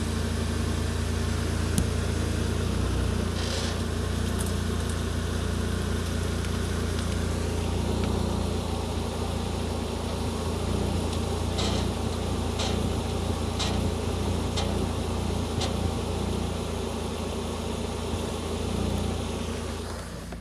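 Ford Focus ST170's four-cylinder engine idling steadily with a pump noise from the power steering with the wheel on full lock. A few short sharp clicks or squeaks come about once a second in the second half.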